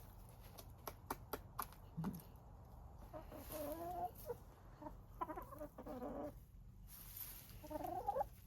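Domestic hens clucking in three short runs of wavering calls. A few sharp clicks come in the first second or two.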